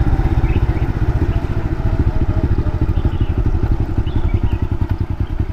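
Honda Wave's small single-cylinder four-stroke engine running under throttle on the move, with a fast, even exhaust beat that eases slightly near the end.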